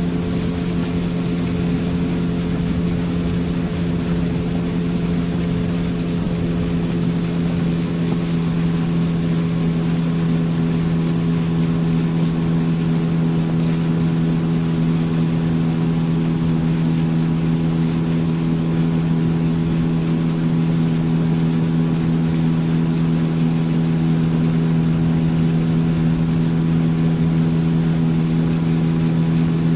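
Motorboat outboard engine running at a steady cruising speed, with the hull's wash and wind noise underneath.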